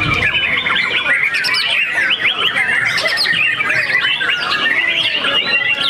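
Several white-rumped shamas singing at once: a dense, unbroken tangle of fast whistles, trills and chirps overlapping one another.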